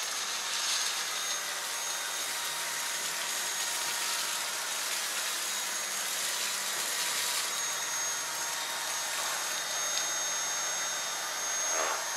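Dyson V8 Carbon Fibre cordless stick vacuum running in normal mode, a steady rush of air with a thin high whine over it, as it is pushed forward in a single pass.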